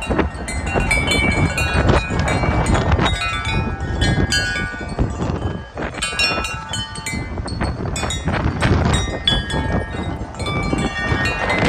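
Several wind chimes ringing in a fast, jumbled tangle of many overlapping tones, tossed by strong gusty wind. Wind buffets the microphone throughout, rising and falling with the gusts.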